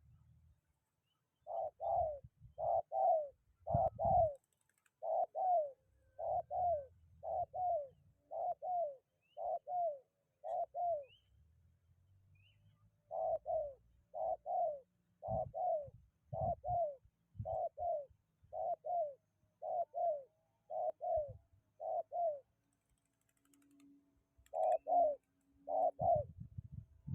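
Spotted dove cooing: a long run of quick, evenly repeated two-part coos, breaking off twice briefly. Now and then a low rumble sits underneath.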